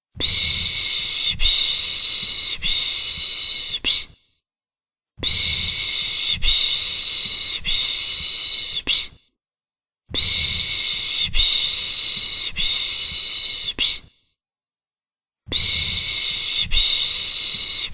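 Soothing 'shh' shushing by a human voice, the 'pış pış' sound used to calm a baby. It comes in hissing bursts of about four seconds, each pulsing three or four times, with about a second of silence between bursts, four bursts in all.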